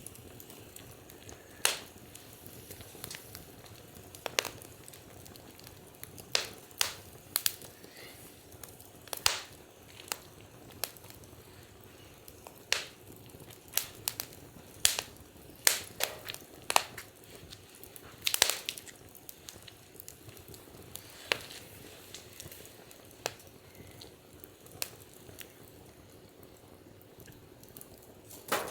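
Wood fire crackling, with sharp pops at irregular intervals over a low steady hiss.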